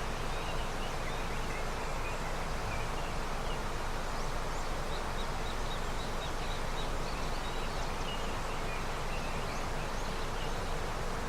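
A river in early snowmelt, flowing as a steady rush of water, with faint, short bird chirps scattered throughout.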